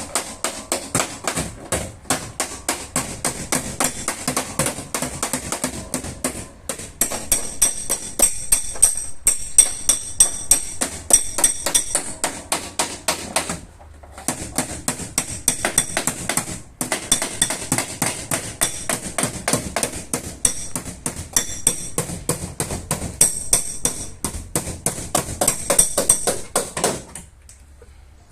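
Hammer tapping repeatedly on car body sheet metal, about three or four ringing blows a second, in runs broken by short pauses.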